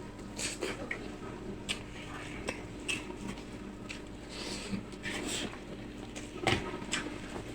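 A person eating close to the microphone: wet chewing and mouth clicks, with a few light clinks from the plate, the sharpest about six and a half seconds in.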